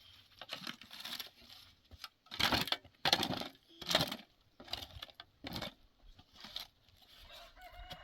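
Chickens clucking and squawking in a run of short, harsh bursts, loudest about halfway through.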